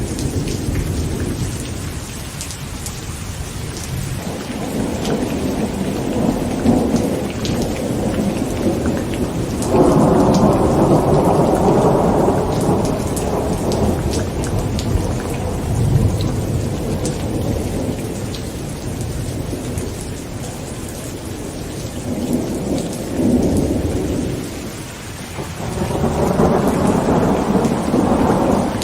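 Heavy rain pattering on a tent, with rolling thunder. The loudest rumble swells in about a third of the way through and lasts several seconds; another builds near the end.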